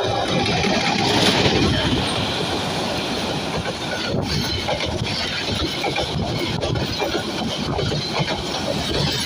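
A train running past close by: a steady loud rumble of wheels and carriages on the rails, with many irregular knocks.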